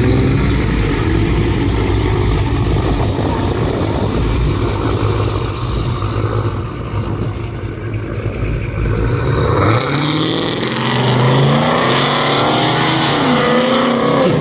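A loud car engine and exhaust being revved in a rev battle, held high with a rapid stuttering rumble. About ten seconds in, the deep rumble drops away and the revs rise and fall in glides.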